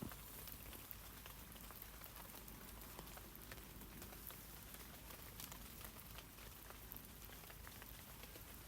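Rain falling on tree leaves: a faint, steady patter of many small scattered drops.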